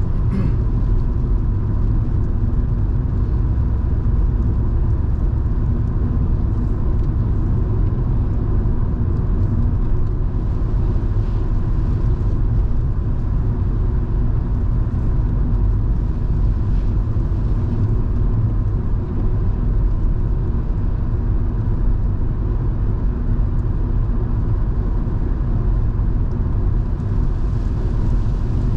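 Volvo V70 2.5T's turbocharged five-cylinder engine and tyre noise while driving at a steady pace: a constant low rumble and drone with a faint steady high tone above it.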